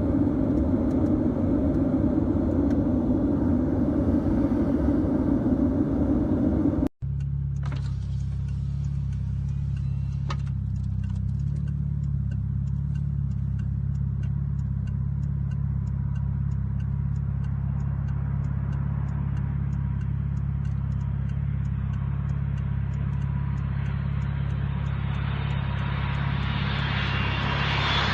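Steady drone of an Airbus A380's engines and airflow, heard inside the passenger cabin. About seven seconds in the sound cuts off abruptly, then resumes as a lower, even hum with faint ticking, turning brighter and hissier near the end.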